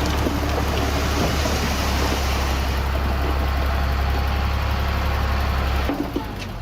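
Heavy diesel engine of earthmoving machinery running steadily with a deep rumble; near the end the low rumble drops away.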